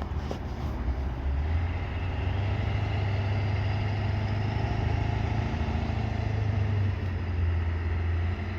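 Pickup truck engine running at a steady idle, its low drone getting a little louder about a second in.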